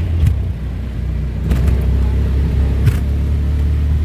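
A road vehicle's engine running steadily close by, a loud low rumble with a constant hum, with a few faint clicks over it.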